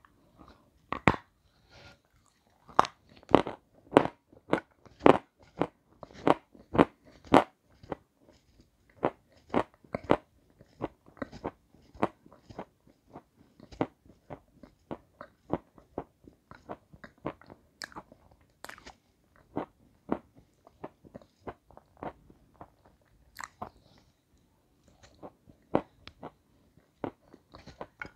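Close-miked biting and chewing of crisp, snow-white pieces: a run of sharp crunches, loud and about two a second for the first several seconds, then softer and more irregular as the mouthful is chewed down.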